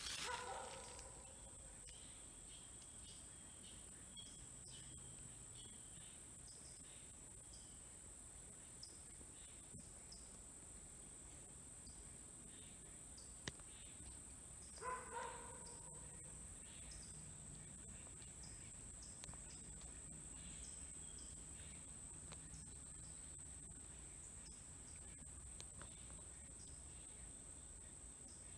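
Insects, crickets or katydids, making a steady high-pitched drone in the woods. About halfway through comes one short animal call.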